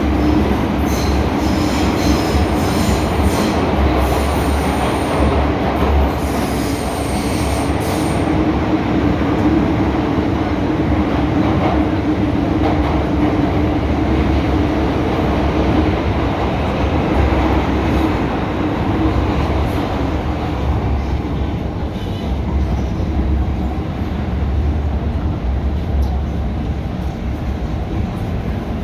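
MTR M-Train electric multiple unit running on the line: a steady rumble of wheels on rail, with a thin high-pitched wheel squeal for roughly the first eight seconds.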